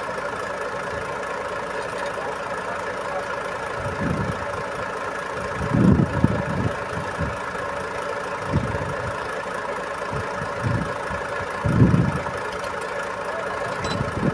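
Iveco boom truck's diesel engine running at a steady speed, with a constant hum throughout. Several irregular low thumps or rumbles come through it, two of them louder than the rest.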